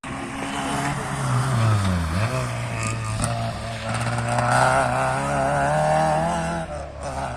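Rally car engine running hard. Its pitch drops and climbs back about two seconds in, then holds high with a wavering note, and it fades near the end.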